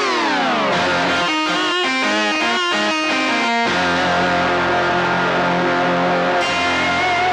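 Ensoniq TS-10 synthesizer playing a guitar-like plucked sound: a falling pitch sweep, then a run of quick short notes. About halfway through it settles into a held chord over sustained bass notes, with a wavering top note.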